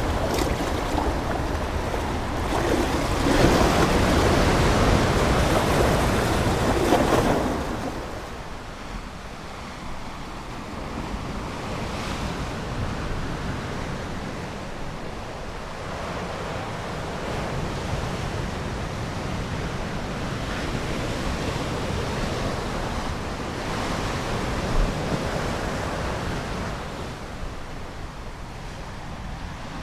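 Ocean waves: a louder surge of surf for the first seven seconds or so, then falling back into a softer, steady wash of water.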